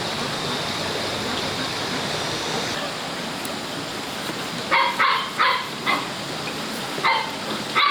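A steady hiss of background noise. From about five seconds in, a run of about six short, high-pitched animal calls comes in quick succession.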